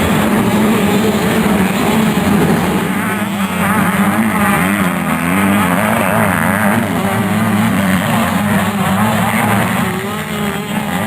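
Several 85cc two-stroke motocross bikes racing, their engines revving up and down together in a dense, overlapping whine.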